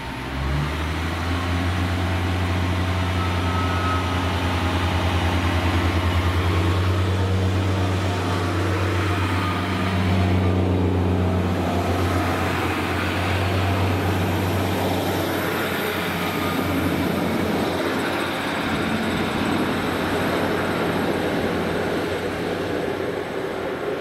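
Diesel train passing: a steady low engine drone over the rushing noise of wheels on rail. The drone fades after about fourteen seconds while the rolling noise carries on.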